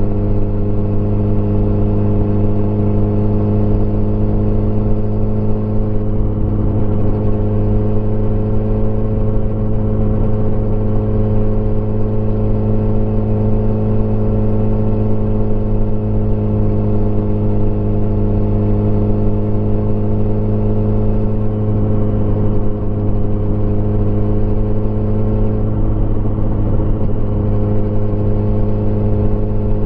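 Motorcycle engine running at a steady cruising speed from the rider's position, an even drone whose pitch barely changes.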